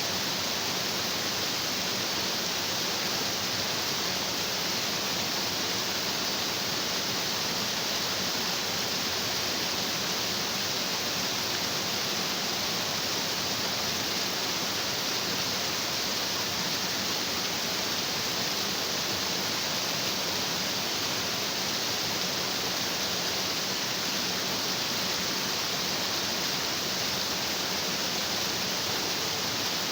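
Stream water rushing and splashing over rocks in a steady, unbroken hiss.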